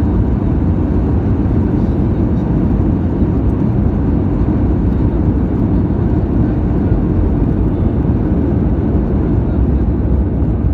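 Steady, loud rush of an Airbus A320's engines and airflow heard from inside the passenger cabin during landing.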